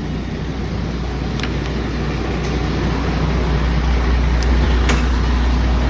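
Steady low rumble of a running motor vehicle, growing slightly louder, with a few light clicks.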